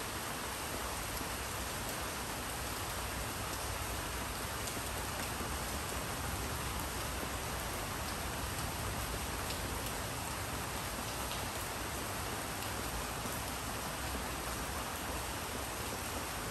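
Steady rainfall, an even hiss with a few faint drop ticks and no change in strength.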